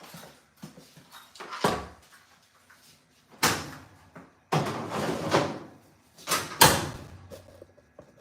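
A few sharp knocks and bangs, with a second-long scraping rush between them, like a door or panel being handled and shut.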